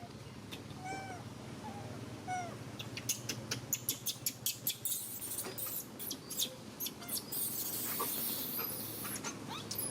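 Baby monkey giving a few short, arched whimpering cries in quick succession, then a rapid run of sharp clicks and rustling. The cries are those of an infant upset at being denied its mother's milk.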